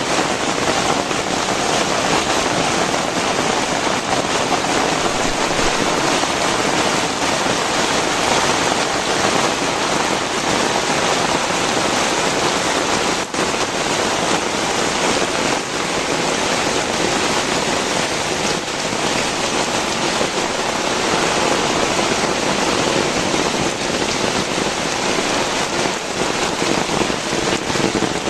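Heavy rain pouring down steadily, a dense unbroken hiss of rain falling on the ground and surfaces.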